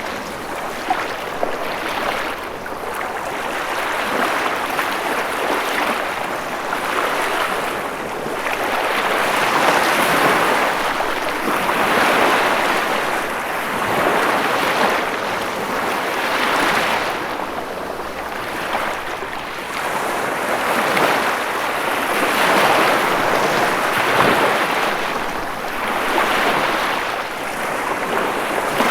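Ocean waves breaking and washing onto a shore, a continuous hiss of surf that swells and recedes every couple of seconds.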